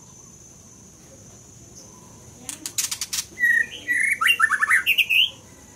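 White-rumped shama singing: a quick dry rattle about two and a half seconds in, then a burst of fast, loud whistled notes for about two seconds.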